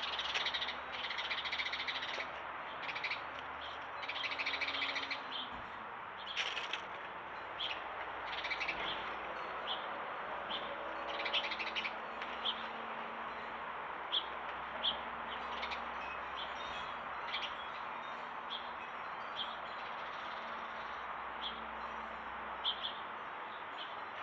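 Small birds chirping, with bursts of chatter in the first few seconds and then single short chirps every second or so, over a steady background hiss.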